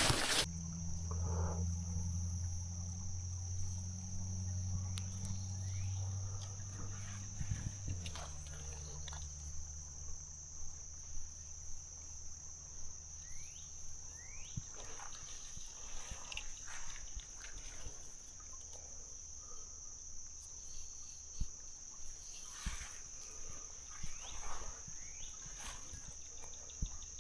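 Steady high-pitched trilling drone of insects, crickets or similar, in the creekside vegetation, with scattered faint clicks. A low steady hum underlies the first half, dropping in pitch about 8 seconds in and stopping about halfway.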